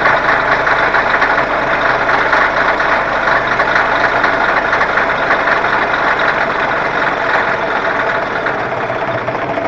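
Diesel engine of a CAT 637 wheel tractor-scraper running steadily, with a fast, even firing pulse.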